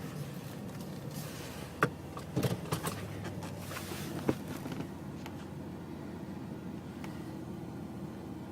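Steady low hum of a car, with a handful of sharp clicks and knocks and a couple of short hissing rustles about two to four seconds in.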